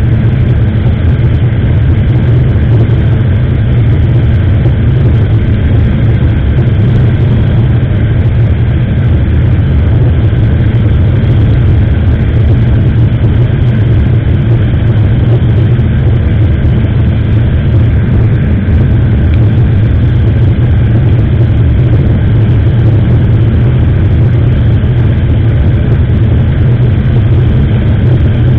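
Motorcycle under way at a steady speed. Engine and wind rushing over the action camera's microphone make a loud, unbroken low rumble.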